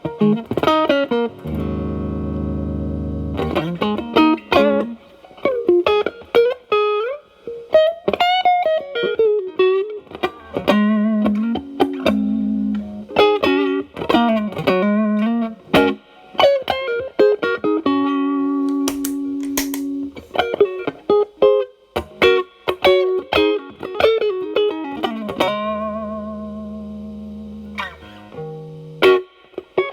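Telecaster electric guitar through an Xotic BB overdrive pedal set to gain 8, into a Marshall Valvestate amp's clean channel, playing bluesy single-note lead lines with string bends and vibrato. Sustained chords ring out in between, a few seconds each.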